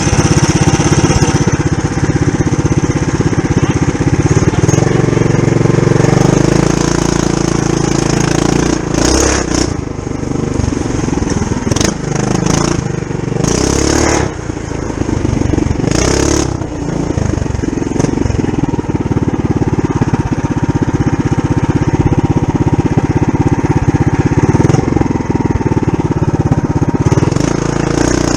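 Mini bike's Tillotson 212cc single-cylinder engine, governor removed, running under load while riding, its engine speed rising and falling. A few short bursts of noise break in around the middle.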